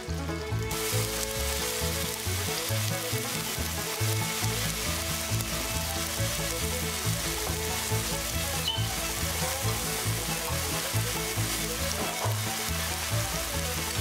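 Tofu slices sizzling as they pan-fry and brown in hot oil in a frying pan; the sizzle starts about a second in.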